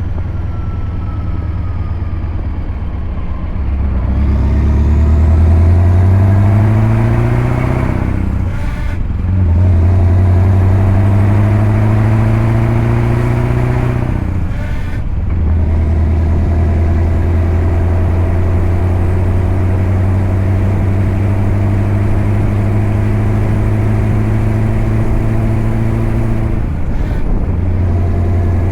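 Scania V8 diesel truck engine pulling and accelerating up through the gears. Its pitch rises, drops away briefly at each of two gear changes, then settles into a steady run, with a short dip near the end.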